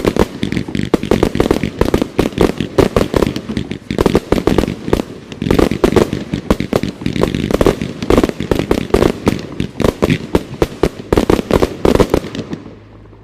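An 81-shot fireworks cake firing: rapid, overlapping shots launching and bursting, many a second, which stop about a second before the end.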